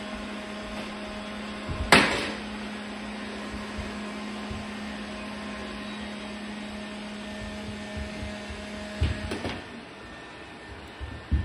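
Several robot vacuum cleaners running together with a steady motor hum, broken by one loud sharp knock about two seconds in. Near the end the hum drops away, and a few smaller knocks follow.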